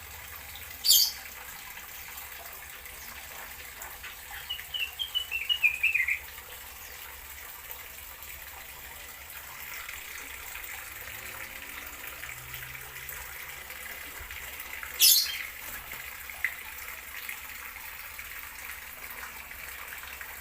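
Small aviary birds calling: a sharp high chirp about a second in and another near the 15-second mark, and a quick run of about ten short notes stepping down in pitch partway through, over a steady background hiss.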